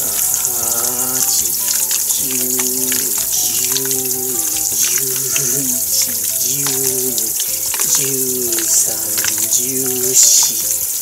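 Background music with a melody, over the wet squelching and smacking of raw chicken pieces being kneaded by hand in a thick marinade in a stainless steel bowl.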